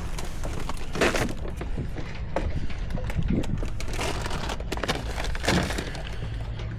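Scattered knocks and clatters, about four of them, over a steady low rumble.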